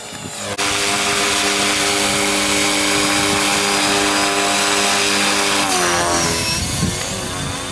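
Electric radio-controlled helicopter flying, its rotor and motor giving a loud, steady hum that comes in suddenly about half a second in and drops in pitch near the end.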